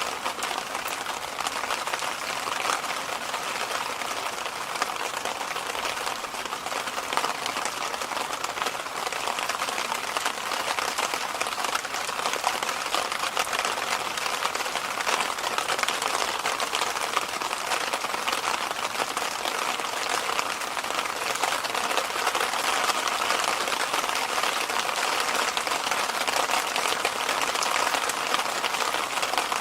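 Electric fan running steadily: an even rush of moving air, strongest in the middle and upper range, with no change throughout.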